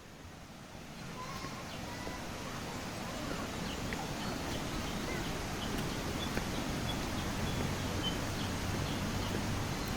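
Tropical forest ambience: scattered short bird chirps over a steady rushing noise that grows gradually louder. A low hum comes in near the end.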